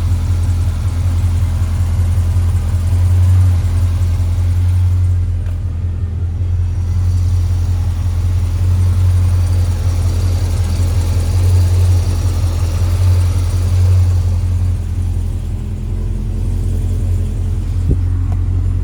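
2013 Chevrolet Corvette Grand Sport's 6.2-litre LS3 V8 idling steadily, an even low drone.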